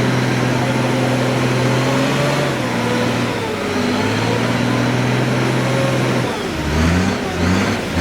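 Off-road 4x4 vehicle's engine held at steady revs. About six seconds in, its pitch drops and it surges unevenly.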